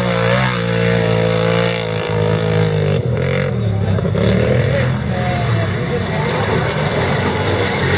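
Quad-bike (ATV) engines running at a race, the engine note rising and falling as the throttle is worked.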